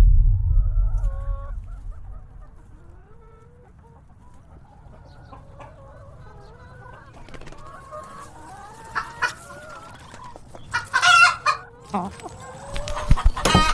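Chicken clucking with soft, wavering calls, and a louder squawk about eleven seconds in. A low rumble fades out over the first few seconds, and a few sharp clicks come near the end.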